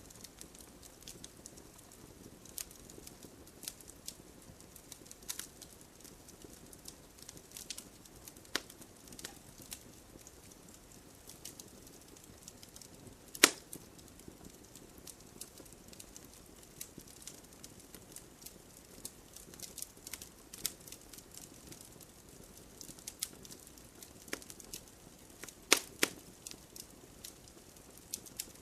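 Wood campfire crackling: irregular sharp pops and snaps over a low steady hiss of the burning fire, with one loud pop about halfway through and a cluster of loud pops near the end.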